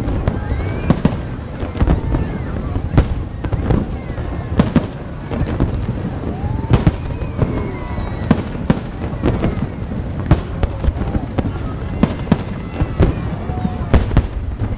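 Aerial fireworks bursting overhead: an irregular, rapid series of sharp bangs and cracks over a low rumble, with people's voices in the background.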